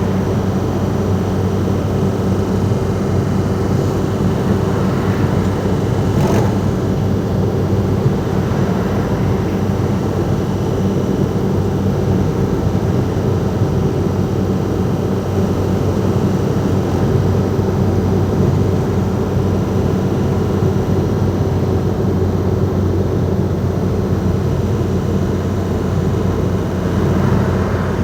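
Ford Transit Mk5's 2.5-litre four-cylinder direct-injection diesel ('banana' engine) running under way, a steady drone at an even pitch over road noise. A brief click sounds about six seconds in.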